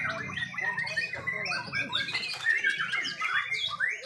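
Several white-rumped shamas singing over one another, a dense tangle of whistles and quick chirped phrases, over a low background murmur.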